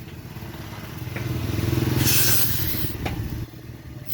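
A low, pulsing engine-like rumble that swells in the middle and then fades, with a short burst of hiss about two seconds in.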